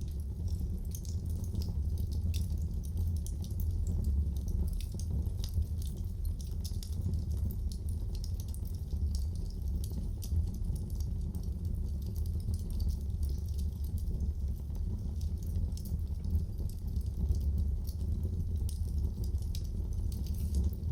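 Wood fire crackling in a fireplace: frequent small, sharp snaps and pops over a steady low rumble.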